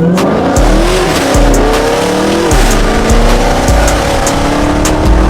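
Chevrolet Camaro ZL1's supercharged V8 under hard acceleration. The engine pitch climbs, drops at a gear shift about a second in, climbs again and drops at another shift near the middle, then holds steadier.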